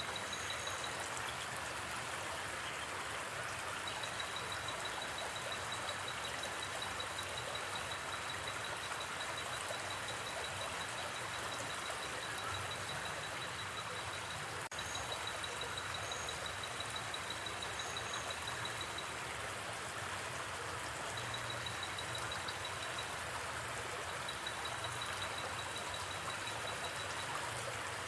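A river flowing steadily, under a high, rapidly pulsing trill of night insects that runs for several seconds at a time, breaks off and starts again, with a few short higher chirps. One faint crack about halfway through.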